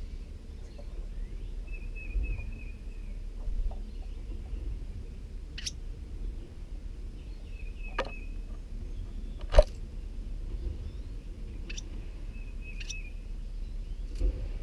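Steady low rumble with a few faint short warbled bird chirps and several sharp clicks; the loudest click comes about two-thirds of the way through. Near the end there is a soft bump as a wren arrives at the nest.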